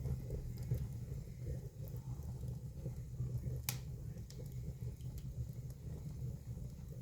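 Fire burning in a fireplace: a steady low rumble with scattered crackles and pops, and one sharper pop about halfway through.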